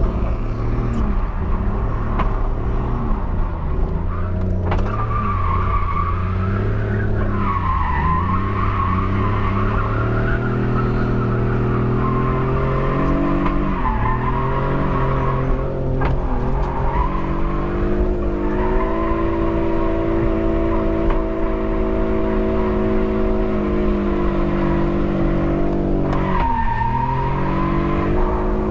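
BMW E46 330i's straight-six engine revving under a drift, its pitch climbing and dropping again and again, with tires squealing as the car slides. Heard from inside the cabin through a helmet microphone.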